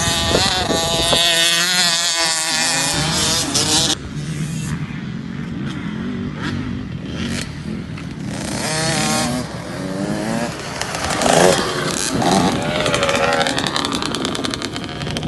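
KTM SX 50 kids' motocross bike's small two-stroke engine revving on the track, its pitch rising and falling again and again with the throttle and gear changes.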